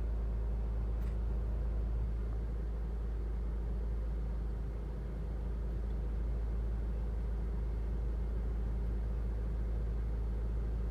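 Steady low rumble of a car, a 2007 Honda Civic, running, with an even drone that neither rises nor falls.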